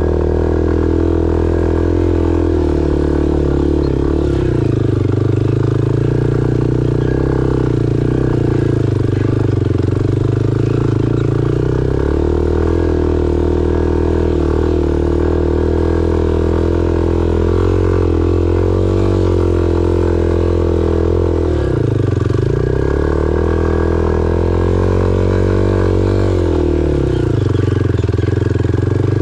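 Single-cylinder dual-sport motorcycle engine running steadily under load, heard from on the bike. A little past three-quarters of the way through, the revs drop briefly and then pick up again.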